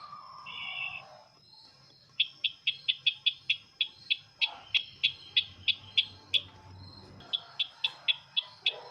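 Call of the sisintar bird: a rapid series of sharp, high chip notes at about four a second, a short break, then a second, shorter run. A brief buzzy note comes just before.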